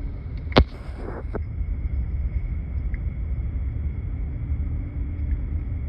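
Diesel locomotive engine running with a steady low rumble and a faint steady hum. A sharp click comes about half a second in, with a fainter one just after.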